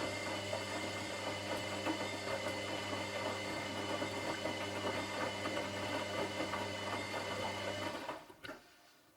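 Washing machine drum turning, its motor humming under the churn of tumbling laundry, then stopping about eight seconds in as the wash cycle pauses between turns, followed by a single click.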